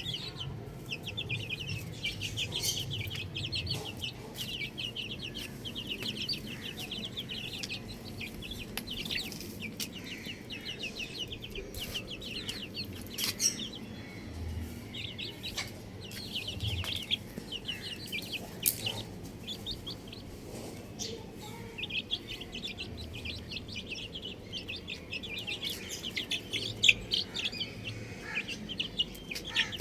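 Baby chicks peeping rapidly and continuously, with a few short pauses, and a few sharp clicks.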